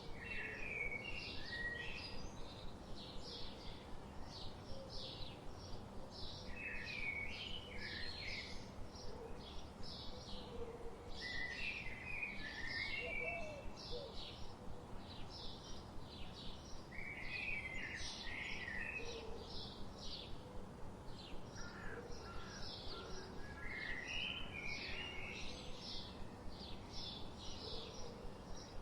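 Forest birdsong: a steady series of short high chirps, about two a second, with a warbling phrase that comes back every few seconds, over a faint background hiss.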